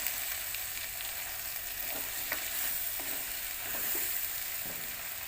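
Brinjal and tomatoes frying in oil in a pan, a steady sizzling hiss with a few faint clicks about two to three seconds in.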